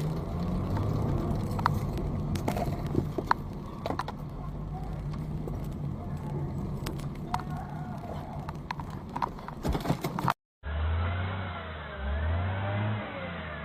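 A car's engine running, with scattered clicks and knocks. About ten seconds in the sound drops out briefly, and a different, duller engine recording follows with a wavering tone that rises and falls.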